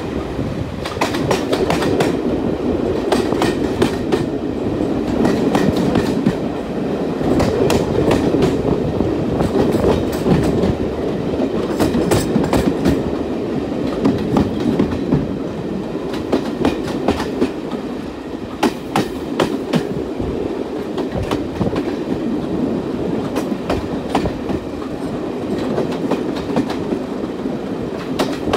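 Train running along the track: a steady rumble with many irregular sharp clicks and clacks from the wheels on the rails.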